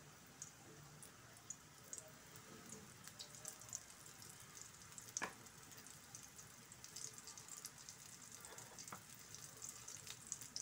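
Flour-coated chickpea kababs shallow-frying in a little oil on a tawa griddle: faint sizzling with scattered crackles that grow busier toward the end. One sharp tap about halfway through.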